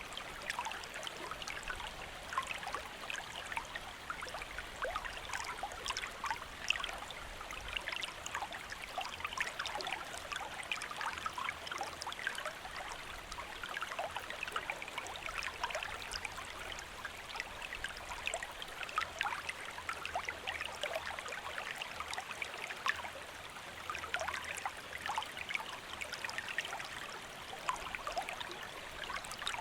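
A small river or stream flowing, a steady babbling with many small splashes and gurgles.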